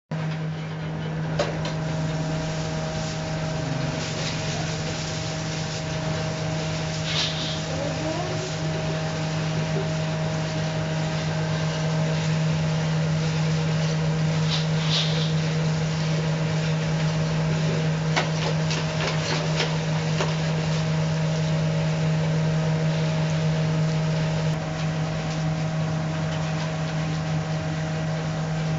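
Steady electric hum of a motor or fan, with occasional clicks and short scraping rattles.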